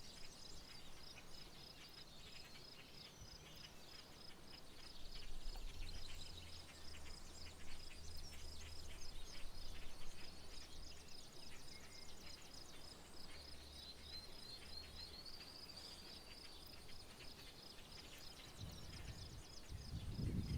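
Rural outdoor ambience: a high, steady pulsing call, about two or three pulses a second, keeps going throughout, with scattered bird chirps and a short rising trill about two-thirds of the way in. A low rumble comes up in the middle, and a brief low thump comes near the end.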